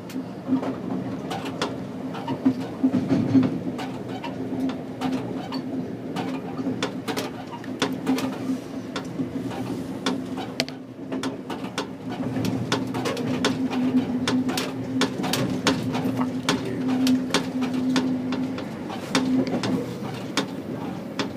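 Moving passenger train, heard from inside a car: a steady running hum with rumble under it, and sharp clicks and knocks from the wheels over rail joints and switches that come more often in the second half.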